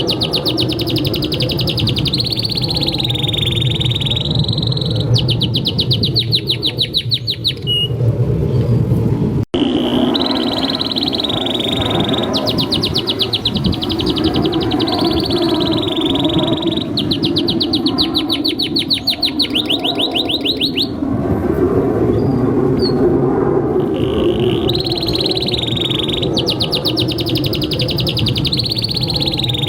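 Domestic canary singing a long, continuous song of warbled phrases and fast trills, with a brief break about nine seconds in, over a steady low rumble.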